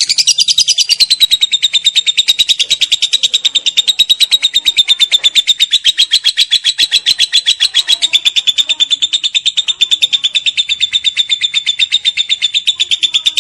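Lovebird 'ngekek': a long unbroken chattering trill of sharp high notes, about eight a second, fast and even, held at a steady pitch after a slightly higher start.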